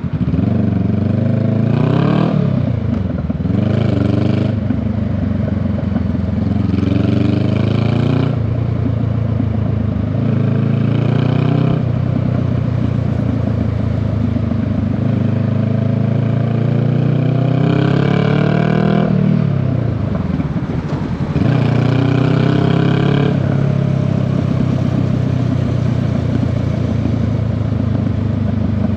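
Honda Rebel 500's parallel-twin engine pulling the motorcycle along, its revs climbing and dropping back several times as it accelerates and shifts gears, with steadier running in between.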